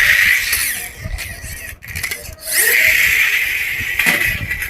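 A small toy car whirring as it runs, in two spells with a short lull between.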